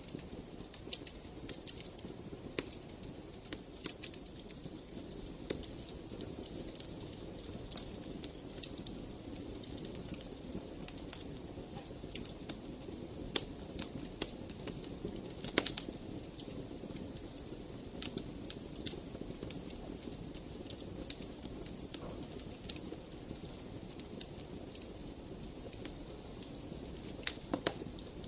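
Wood fire in a fireplace, crackling and popping at irregular intervals over a steady low rumble of the flames.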